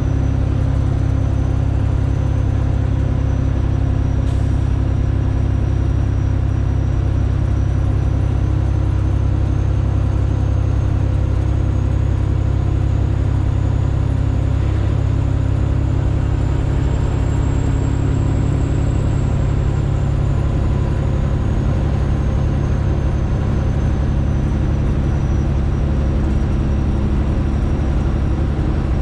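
Straight-piped Detroit Diesel engine of a Freightliner Classic XL truck running steadily under way: a loud, even, deep drone. A faint high whine rises slightly about two-thirds of the way through, then settles back.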